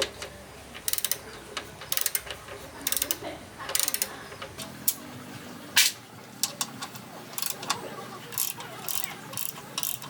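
Ratchet wrench clicking in short bursts of rapid clicks, over and over, as bolts are worked during a motorbike strip-down, with a single sharp click about six seconds in.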